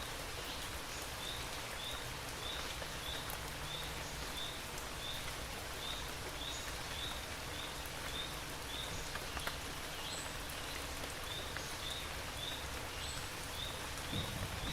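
Steady rain with scattered drip ticks, over which a short high chirp repeats about one and a half times a second. A low rumble comes up right at the end.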